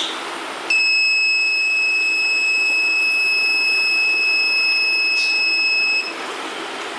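Electronic buzzer of an automated railway gate system giving its warning: one steady, high-pitched continuous tone that comes on suddenly under a second in and cuts off about five seconds later, over a background hiss.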